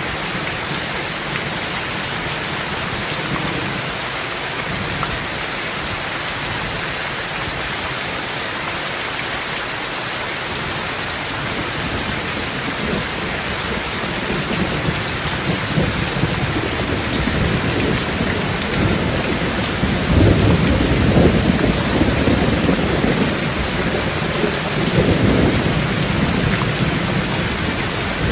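Rain falling steadily, with thunder rolling in about halfway through and rumbling loudest twice near the end.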